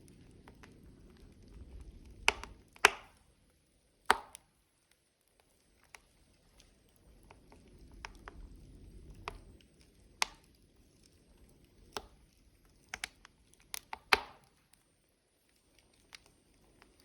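Logs burning in a wood fire, crackling with sharp, irregularly spaced pops over a soft low rumble of the flames. The loudest pops come about 3 s, 4 s and 14 s in.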